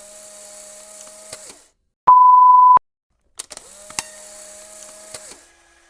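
A single loud, steady electronic beep lasting under a second, about two seconds in. It sits between two quieter stretches of hiss, each carrying a held mid-pitched tone that slides up at its start, with a few clicks.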